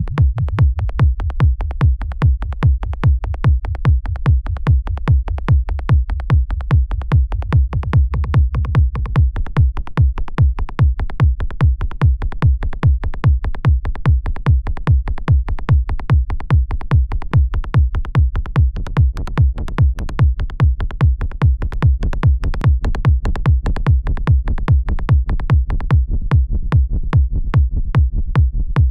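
Electronic techno beat: a synthesized kick drum hitting steadily about twice a second, with a synth bassline sounding between the kicks.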